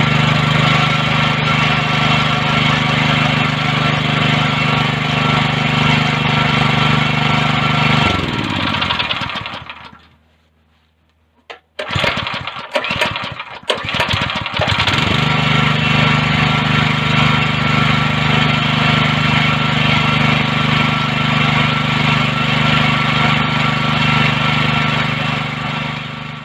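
Go-kart's small engine running steadily, now starting and running with the faulty kill switch wires removed. It winds down and stops about eight to ten seconds in. After a short pause it sputters back to life and runs steadily again.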